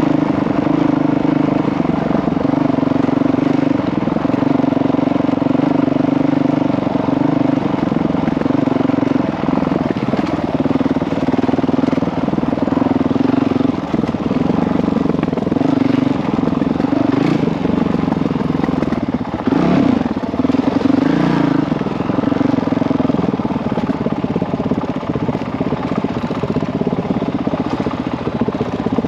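Single-cylinder four-stroke Honda CRF dirt bike engine running while ridden, its note rising and falling as the throttle opens and closes. A rougher, noisier stretch comes a little past the middle.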